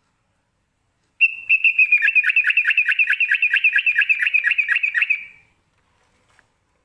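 Trucukan (yellow-vented bulbul) singing a ropel phrase: a fast, even run of repeated pitched notes, about five a second, lasting about four seconds.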